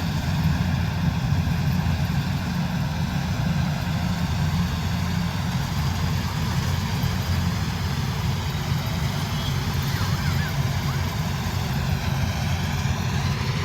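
Kubota DC-108X rice combine harvester's diesel engine running steadily at working speed, a low, even drone with no change in pitch.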